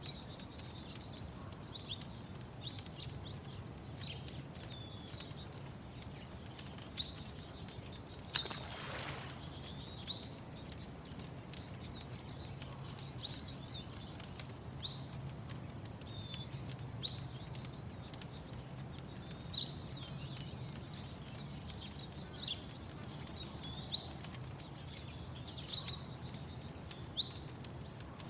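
Lakeside morning ambience: a bird repeating short, high chirps every second or two over a low steady hum, with faint crackles from a wood fire. About eight and a half seconds in there is a brief rushing whoosh.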